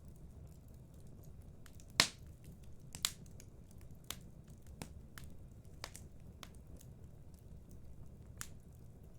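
Wood fire in a fireplace crackling: scattered sharp pops over a low, steady rumble. The two loudest pops come about two and three seconds in.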